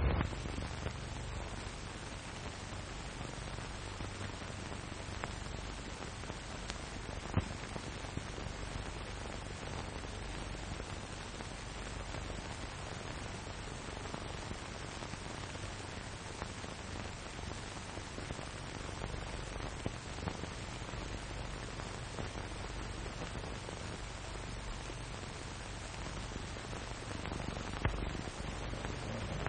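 Steady hiss and low hum of an early sound film's soundtrack, with no dialogue and a few faint clicks.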